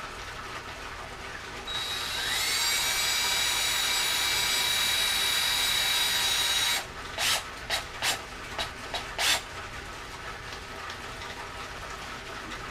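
Electric drill driving a square-shank double-threaded screw into wood: the motor spins up with a rising whine about two seconds in and runs steadily for about five seconds, then gives six short bursts as the screw is run in the rest of the way.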